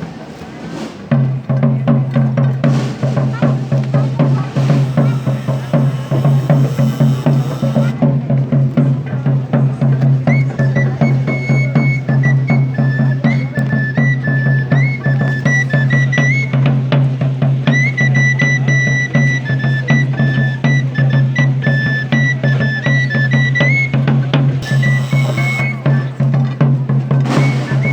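Procession band music: a steady snare drum roll under a held low brass line, with a high melody line entering about ten seconds in.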